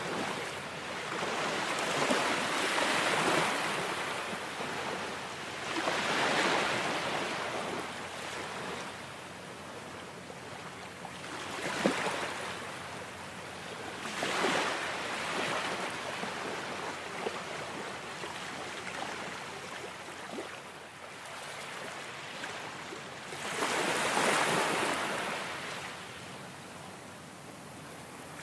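Ocean waves washing in and drawing back, swelling and falling away every few seconds, with one larger wave near the end.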